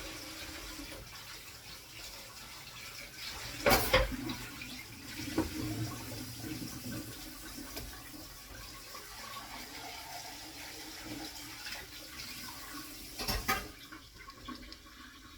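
An omelette of potato, mushroom, onion and ham sizzling in a frying pan, a steady hiss. Two sharp knocks stand out, about four seconds in and again near the end, and the sizzle quietens slightly in the last second or two.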